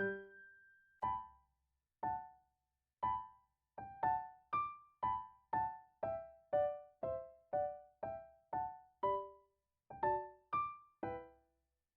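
Background music: a simple solo piano melody of single notes, each ringing briefly and fading, about two a second.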